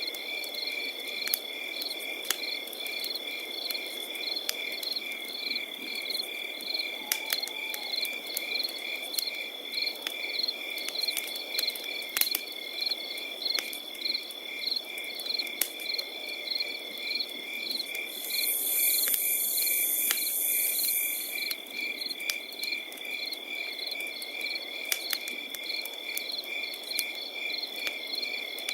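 Crickets chirping steadily in a fast pulsing rhythm over a crackling campfire with scattered sharp pops. A higher-pitched insect buzz joins for about three seconds past the middle.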